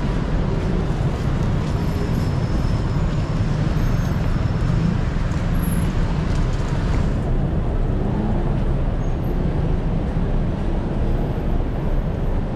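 Steady, loud low rumble of a running vehicle or traffic; the higher hiss over it drops away about seven seconds in.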